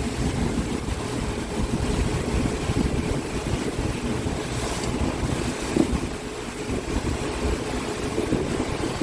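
Wind buffeting the microphone over a boat's engine and water noise, a rough, uneven rumble with a faint steady engine tone underneath.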